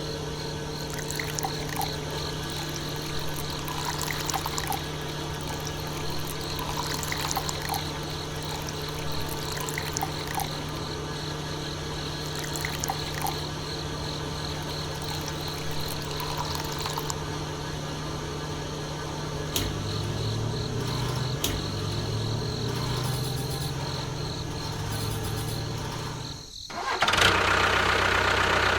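A small electric motor, such as one driving a model construction machine, runs with a steady hum, with scattered light clicks and rattles. Its pitch wavers lower for the last part, then the sound cuts sharply to a louder, rougher whirring near the end.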